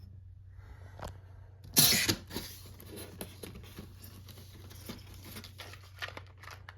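Packaging being handled and rummaged through, a loud crinkling rustle about two seconds in, then scattered light clicks and rustles.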